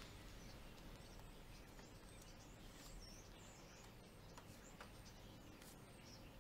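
Near silence: faint room tone with small birds chirping now and then, and a few soft clicks.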